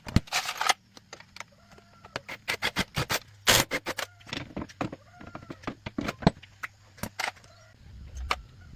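Irregular metallic clicks, clinks and knocks, like hand tools and parts being handled during motorcycle repair work.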